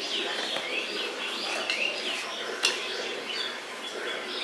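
Songbirds chirping over and over, short high calls that mostly fall in pitch. One sharp click comes a little past halfway.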